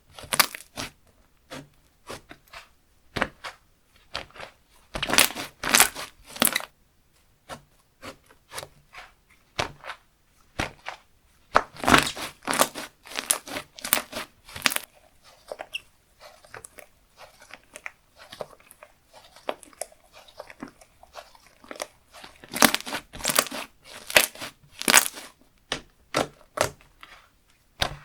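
Slime being squished, pressed and stretched by hand, giving irregular clusters of sticky pops and clicks with quieter stretches between.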